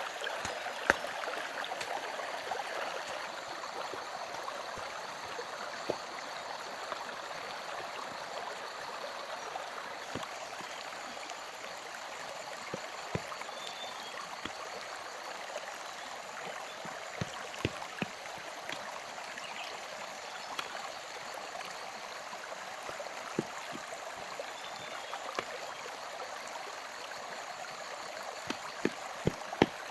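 Steady rushing of running water, with scattered sharp clicks at irregular moments, a few more of them near the end.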